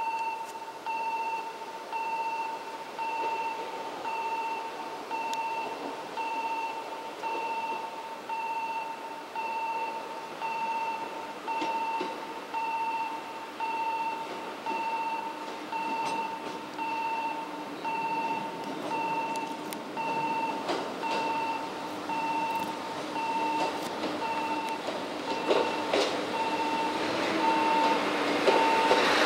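An electronic warning beep repeats evenly throughout. From about halfway a low steady hum of the ET122-1000 'Setsugekka' diesel railcar grows louder as it pulls out and approaches, with clicks of its wheels over the rail joints near the end.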